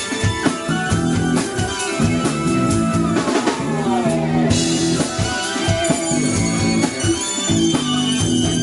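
Rock band playing an instrumental passage between vocal lines: drum kit, bass and electric guitar, with a line that falls in pitch about three seconds in under a cymbal wash.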